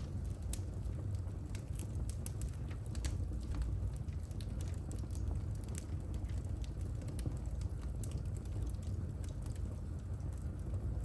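Wood fire burning in a fireplace, crackling with irregular small pops over a steady low rumble.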